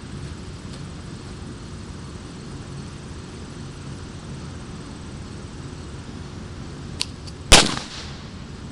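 Homemade impact firecracker grenade going off: a light click, then about half a second later a single loud firecracker bang with a brief echo, over a steady low background hum.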